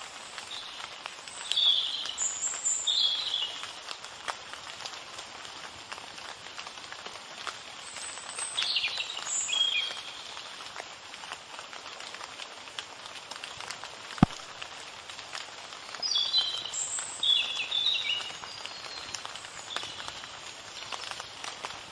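Small birds singing in four short bouts of high chirps over a steady hiss, with one sharp click about halfway through.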